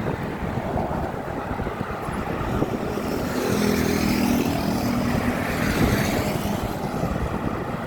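Road traffic on a six-lane bridge rushing past steadily. A vehicle passes close from about three to seven seconds in, with its engine humming over the tyre noise.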